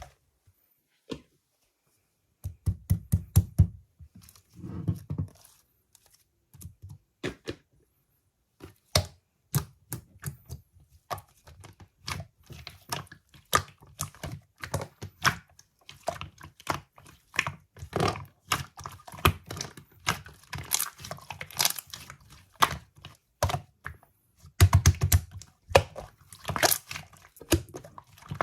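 Mechanical keyboard typing in irregular runs of keystrokes with short pauses. Each stroke is a sharp click with a deep thud under it.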